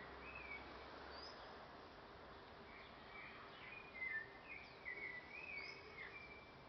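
Faint birdsong: small birds chirping in short gliding notes, busier in the second half.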